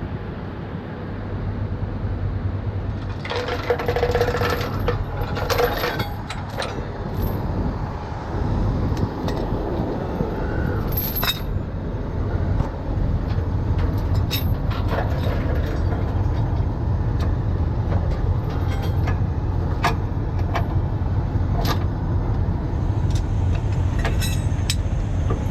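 Heavy tow truck's diesel engine running steadily, with scattered sharp metallic clinks and jangles.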